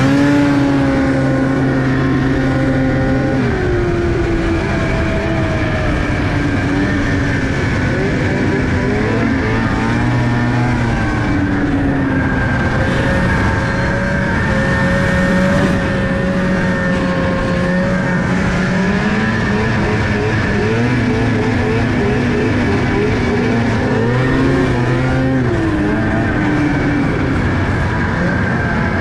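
A car engine running under changing throttle, its pitch rising and falling again and again.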